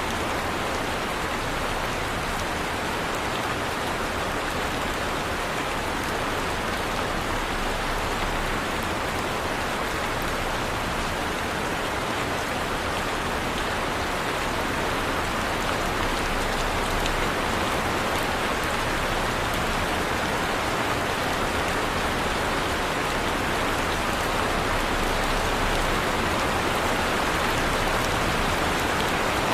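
Heavy rain falling steadily, an even hiss of dense rainfall with faint scattered drop ticks.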